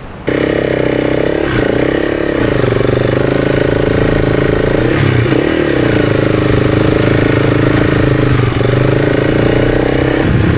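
Honda CRF300's single-cylinder four-stroke engine running at a steady throttle, its note dipping briefly a couple of times.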